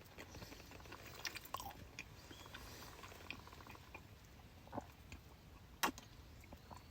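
Close-up chewing and biting of food, with scattered small crunchy clicks and one sharper click near the end.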